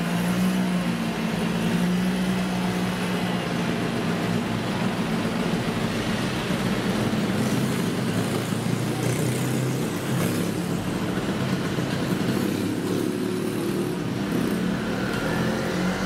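Street traffic: motorbike and car engines running past, with one engine rising in pitch as it speeds up near the end.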